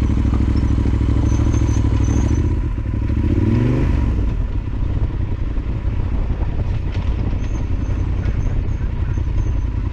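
Yamaha Super Ténéré XT1200Z parallel-twin engine running at low revs while picking its way over a steep, rocky trail. Its pitch rises briefly about three seconds in as the throttle opens, then it runs on quieter.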